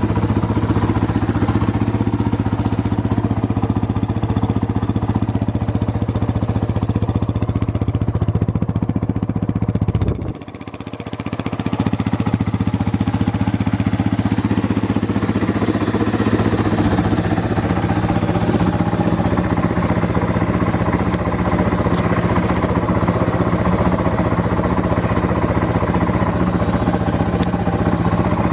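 Yamaha Serow 225's single-cylinder four-stroke engine (a swapped-in 4JG unit) running steadily at idle, with a brief dip in sound about ten seconds in. It runs with no abnormal noise, as the seller states.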